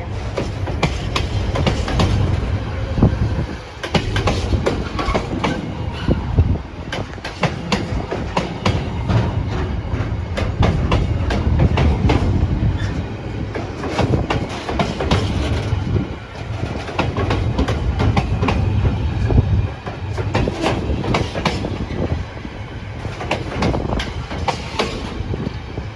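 Container freight train hauled by a Class 70 diesel rolling past, the wagons' wheels clattering over the rail joints in a continuous rumble.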